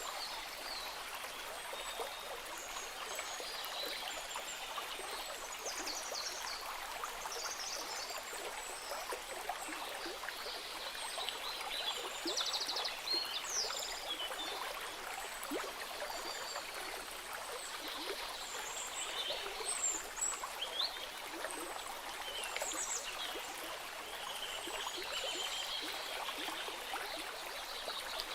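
A stream running steadily, with many short high chirps and trills from small animals scattered throughout.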